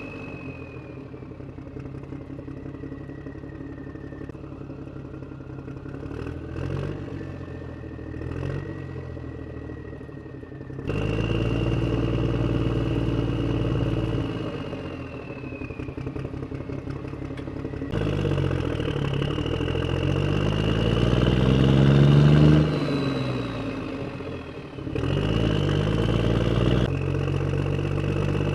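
An engine running and revving, its pitch rising and falling, with a thin high whine above it. The sound breaks off and restarts abruptly several times, and the strongest rev comes past the two-thirds mark.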